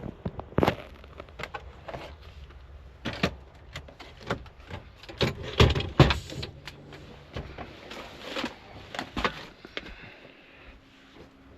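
A series of irregular knocks, clicks and clatters of things being handled, like doors or cabinets, with a low hum underneath that stops about two-thirds of the way in.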